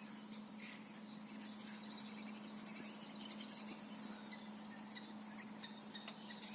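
Faint, scattered chirps and short high calls of small birds, over a steady low hum.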